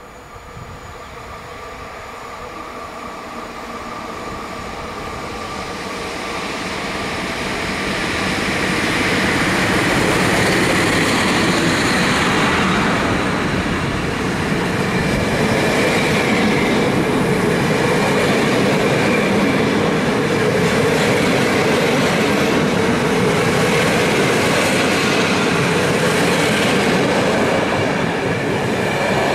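A train approaching and passing through a station, growing louder over the first eight or nine seconds, then a steady loud run of wheels on rails with some clickety-clack and wheel squeal.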